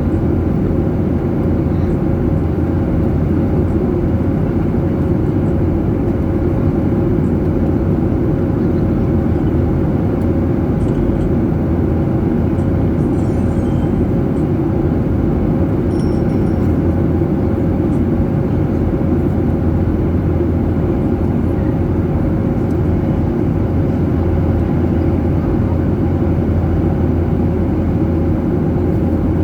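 Steady cabin noise of a jet airliner: a constant low rumble of engine and airflow noise, with a steady hum above it.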